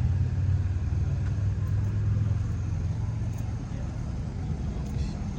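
A car engine running with a deep low rumble, which eases off after about three seconds.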